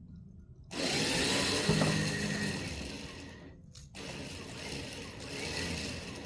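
A winch motor running under load as it pulls a tractor loader off a trailer through a snatch block. It runs in two pulls, stopping briefly about halfway through.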